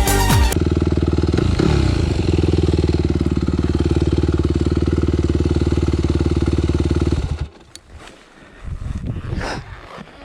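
Yamaha WR250F's single-cylinder four-stroke enduro engine running at a steady speed, then cutting off suddenly about seven seconds in, leaving only faint, irregular sounds. Music ends in the first half-second.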